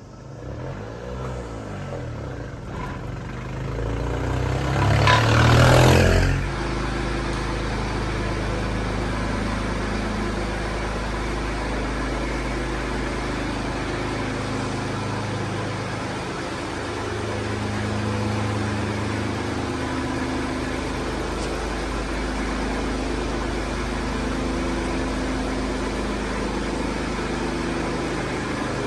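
Suzuki Carry kei truck's small three-cylinder engine starting and briefly revving about five seconds in, then settling into a steady idle.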